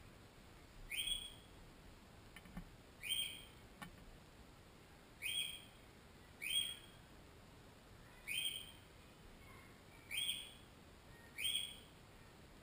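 A bird calling over and over, one short call every one to two seconds. Two faint clicks come about two and a half and four seconds in.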